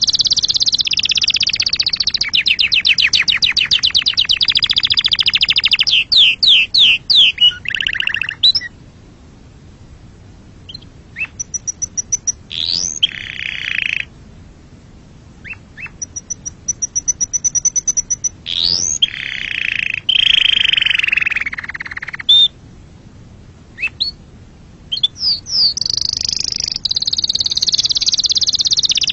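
Domestic canary singing: long, fast trills and rolling phrases broken up by short whistles and rising sweeps, with brief pauses around the middle.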